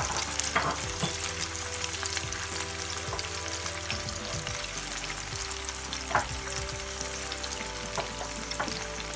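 Sliced onions and freshly added onion paste sizzling in hot oil in a pan, with a couple of short sharp knocks.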